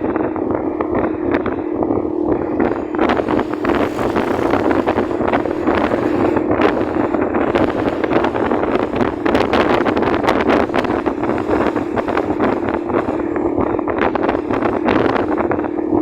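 Wind buffeting the microphone on a moving motorcycle, over the steady hum of its engine.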